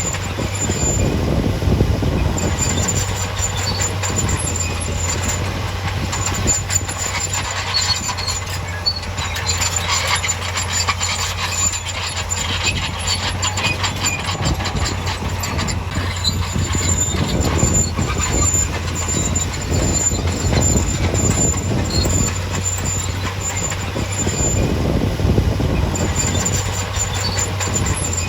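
Heavy diesel construction machinery working: a steady low engine note under dense, continuous metallic clanking and squealing.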